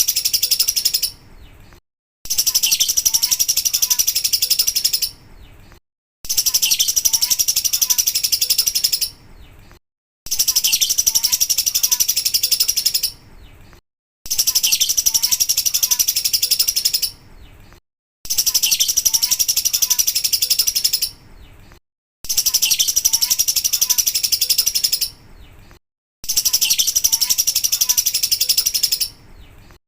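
Lovebird singing 'ngekek': a loud, rapid, high-pitched chattering run of about three seconds, a short quiet tail, then a gap, the same stretch repeating about every four seconds as a looped recording.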